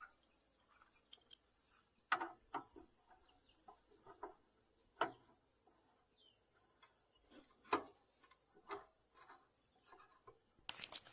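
Quiet, sparse short clicks and knocks, a few seconds apart, over a faint steady high-pitched whine.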